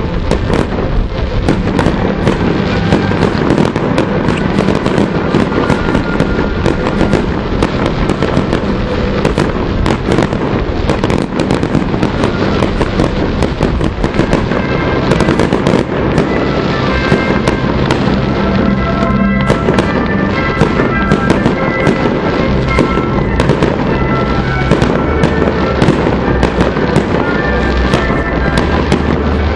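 Fireworks bursting and crackling in rapid, irregular succession, with music playing alongside.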